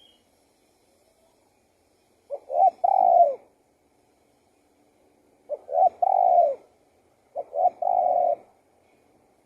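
Spotted dove cooing: three separate phrases, each a quick short note or two leading into a longer coo, a few seconds apart.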